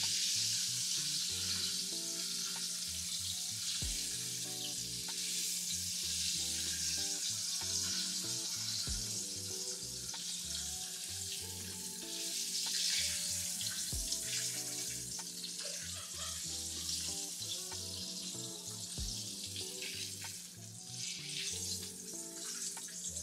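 Breaded chicken tenders frying in a pan of hot oil: a steady sizzle that eases near the end as the pieces are lifted out.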